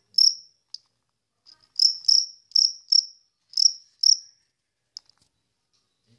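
Insect chirping in short, high chirps, some in quick pairs, spaced irregularly. There is a short gap about a second in, and the chirps stop about four seconds in.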